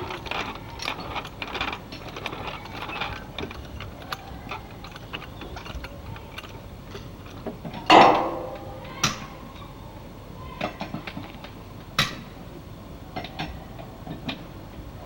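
Scattered metallic clicks and clanks of hands-on work during the engine swap, with a chain block hoist in use. One loud clank with a short ring comes about eight seconds in, and sharper knocks follow a second later and again near twelve seconds.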